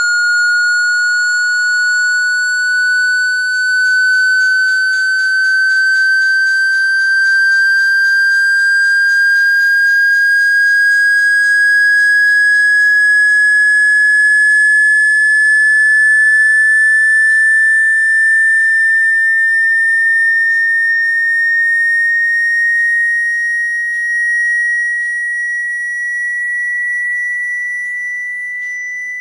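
Loud pure sine tone played as a speaker water-ejection sound, gliding slowly and steadily upward in pitch, meant to vibrate water out of a phone speaker.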